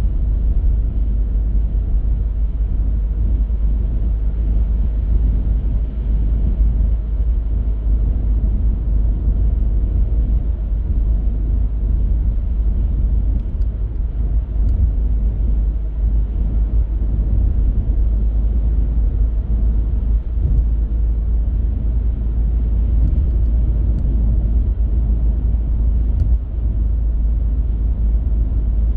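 Car driving steadily: a continuous low rumble of road and engine noise, strongest in the deep bass, with a few faint ticks about halfway through and again near the end.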